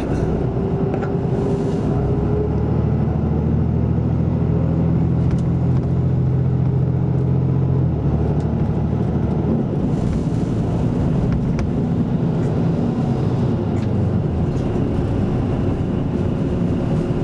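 Isuzu Erga Mio city bus with an Aisin automatic transmission under way, heard from inside the cabin: a steady diesel engine hum whose note drops about eight seconds in and shifts again soon after.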